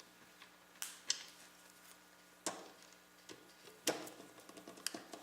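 Scattered sharp clicks and light knocks of screws, a screwdriver and computer parts being handled and lined up, about five in all, the loudest about four seconds in, over a faint steady hum.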